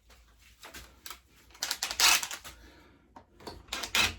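Quick runs of clicking and rattling from hand tools or small metal parts being handled. The busiest run comes about two seconds in, and another starts near the end.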